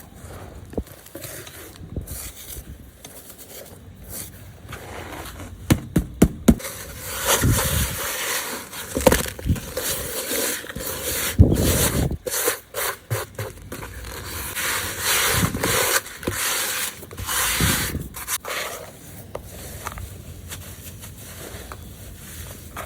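Hands crushing and crumbling clumps of gritty red dirt, a scraping, rubbing crunch, with a few sharp cracks about six seconds in and louder stretches of crumbling through the middle.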